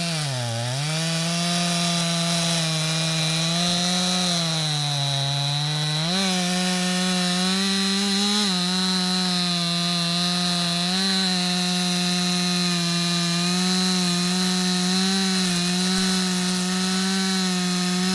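Stihl two-stroke chainsaw running at high revs while bucking logs; its pitch sags twice under cutting load in the first six seconds and recovers, then holds steady.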